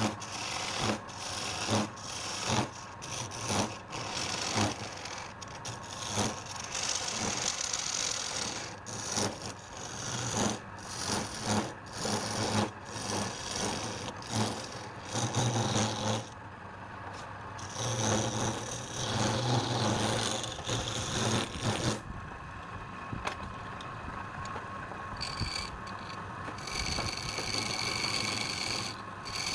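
Wood being worked with a rasp or file in quick, uneven strokes. Past the middle the strokes give way to a steadier scraping hiss with a faint high whine.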